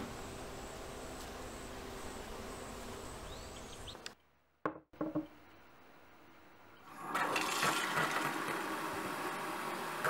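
Steady outdoor background hiss, then a couple of short knocks, and from about seven seconds in, tap water running into a ceramic jug in a stone kitchen sink.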